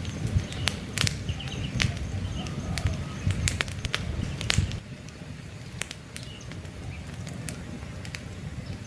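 Wood campfire crackling, with frequent sharp pops over a low rumble of burning that drops quieter about five seconds in. Faint bird chirps sound in the background.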